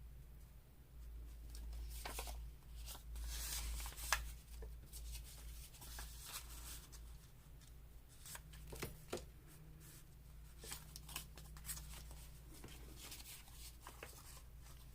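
Paper pieces and labels being handled on a craft table: faint rustling and scattered light taps and clicks, over a low steady hum.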